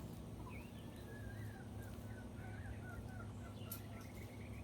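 Chickens calling softly and faintly, a string of short chirping notes, with one sharp click shortly before the end.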